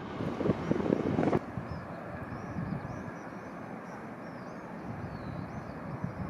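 A train passing at speed with a clattering rush that stops abruptly about a second and a half in. A quieter steady background follows, with birds chirping.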